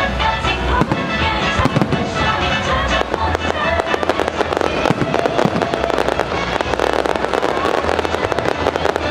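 Fireworks going off in a rapid string of bangs and crackles with low booms, thickening into dense crackling after about three seconds. Music is heard alongside.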